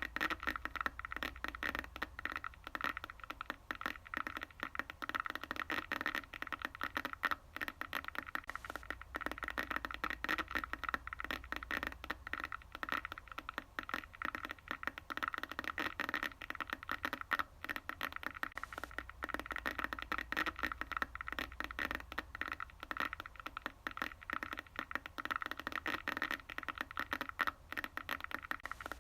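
Sound effect of a broken electronic device: continuous crackling static over a steady electrical buzz, with a low hum that grows and fades.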